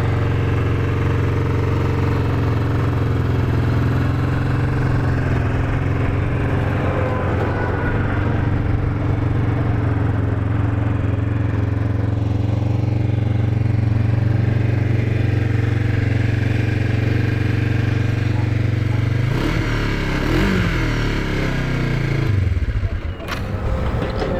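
The 500cc liquid-cooled parallel-twin engine of a 2009 Kawasaki Vulcan 500 LTD idles steadily, then is revved up and down a few times near the end. It sounds quiet, nice and tight, with no strange noises, and revs up smoothly.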